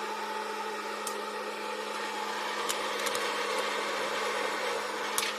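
Microwave oven running with a steady hum while popcorn pops inside, a few sharp pops scattered over the hum.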